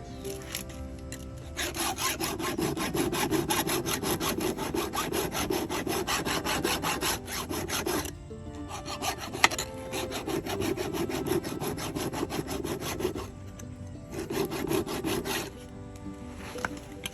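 A hand file scraping across the cutter teeth of a chainsaw chain in three runs of quick, rhythmic rasping strokes, sharpening the chain by hand. Background music plays underneath.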